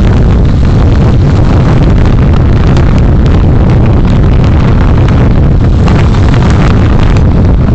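Steady, very loud wind buffeting and road rumble on a moving vehicle's recording microphone, heavy in the low end, with a few faint clicks.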